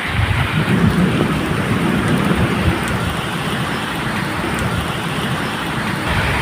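Medium rain falling steadily, with low rumbling thunder underneath that swells about a second in.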